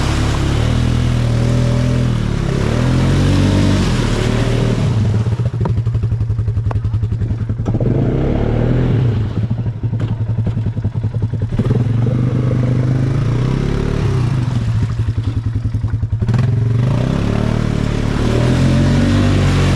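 ATV engine running close by, its pitch rising and falling as the throttle is worked on and off, with slower, separately audible firing pulses at lower revs in the middle stretch.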